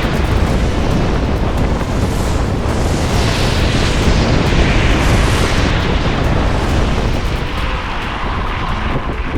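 Strong gale-force wind buffeting the microphone: a loud, continuous rumbling roar with gusts that swell and fade every second or two, easing slightly near the end.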